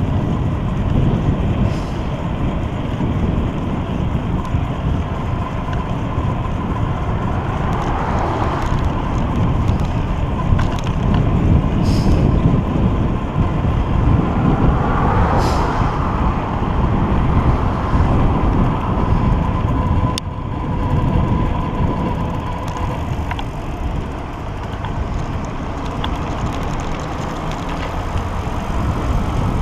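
Wind buffeting the microphone of a moving bicycle, over steady road noise. Passing traffic swells and fades twice, about eight and fifteen seconds in.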